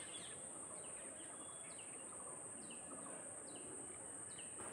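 Faint small-bird chirps, short falling calls repeating about once a second, over a steady high-pitched whine.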